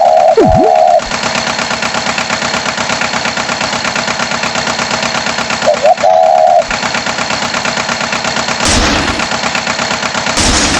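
Cartoon farm tractor engine chugging with a fast, even beat. A short honk comes at the start and again about six seconds in, and a swooping sound effect follows the first honk. A rush of noise comes near the end.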